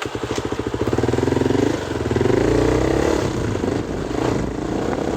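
Motorcycle engine running at low revs, then revving up around two seconds in.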